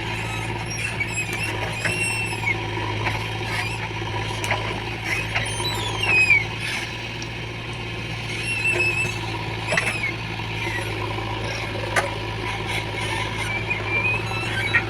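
JCB 3DX backhoe loader's diesel engine running steadily, with many short, high gliding squeaks and a few sharp clicks over it.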